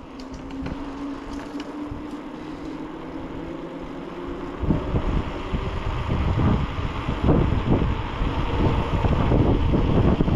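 Wind rushing over the microphone of a moving bicycle rider, with a faint steady hum at first; about four and a half seconds in it turns suddenly loud and gusty.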